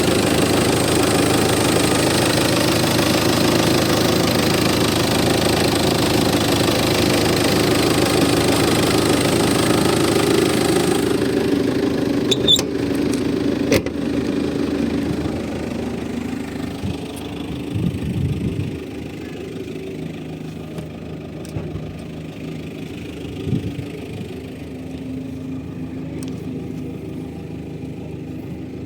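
Chrysler Sebring 2.0 CRD's Volkswagen-built four-cylinder TDI diesel idling steadily. About eleven seconds in the sound drops sharply, two sharp clicks follow, and a quieter steady engine hum with a few thumps carries on.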